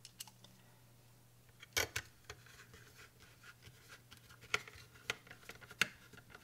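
Small clicks and taps of a screwdriver and the plastic case of a TED 5000 power monitor being handled as it is screwed back together: one louder click about two seconds in and a run of light ticks near the end, over a faint steady low hum.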